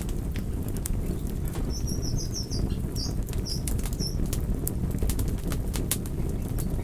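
Campfire burning with a steady low rumble and frequent sharp crackles and pops. In the middle, a bird chirps a short run of high notes.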